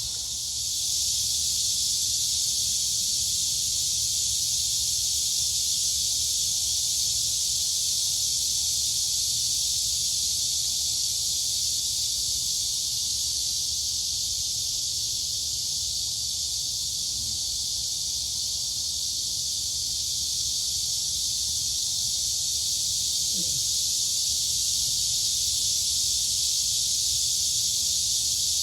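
A dense chorus of crickets and cicadas: a high, continuous buzz that swells about a second in and then holds steady.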